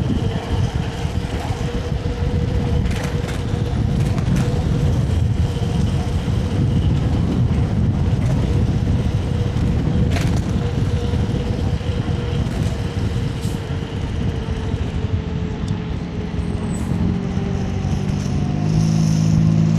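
Wind and road rumble on the microphone of a moving electric scooter, with the scooter motor's steady whine, which sinks in pitch in the last few seconds as it slows. Near the end a low engine hum from another vehicle comes in.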